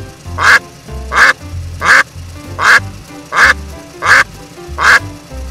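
Duck quacking, seven quacks evenly spaced about three-quarters of a second apart, over background music with a low bass line.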